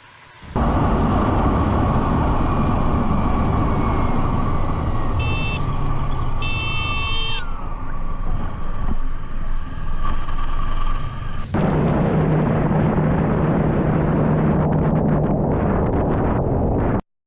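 Motorcycle ride noise, a loud rush of wind and engine. A horn honks twice in quick succession about five and six and a half seconds in. Partway through, the sound jumps to another stretch of riding with a steady engine drone, then cuts off suddenly near the end.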